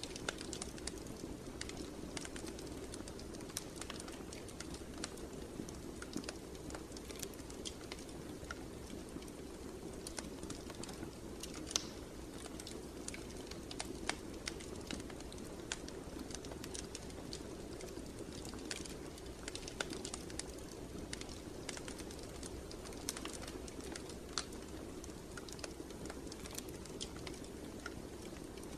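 Fire in a fireplace crackling: irregular sharp pops and snaps over a steady low rush of the flames.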